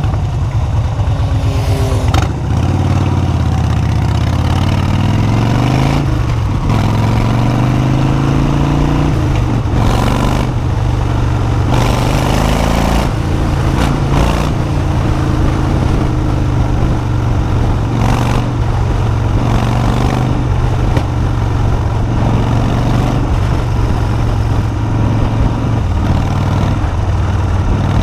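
Motorcycle engine running on a ride, its pitch rising and falling as it speeds up and shifts gear, with several brief loud rushes of noise partway through.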